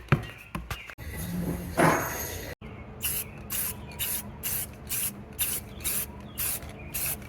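An aerosol can sprayed in short hissing bursts, about two to three a second, starting after a sudden break a third of the way in.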